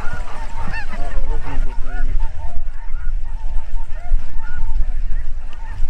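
Flock of snow geese calling: many short, high yelping honks overlapping continuously, over a steady low rumble.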